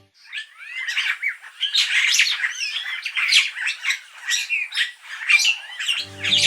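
Purple starlings calling: a dense, busy run of harsh squawks, chirps and short whistled glides, with several birds overlapping.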